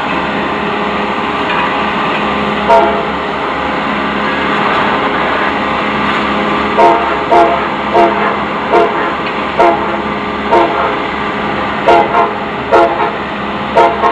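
CSX freight train's diesel locomotives approaching, a steady rumble. From about seven seconds in, a string of short, sharp pitched blips comes about one to two a second, each a brief loud peak.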